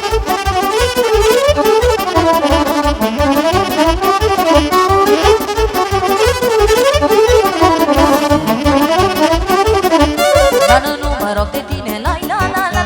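Romanian party music played live by a band, an instrumental stretch: a winding lead melody over a steady bass-and-drum beat. The sound turns duller about eleven seconds in.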